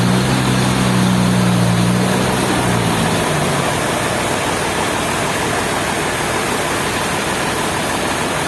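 A low, steady engine hum that stops about three seconds in, over a loud, even rushing noise that goes on throughout.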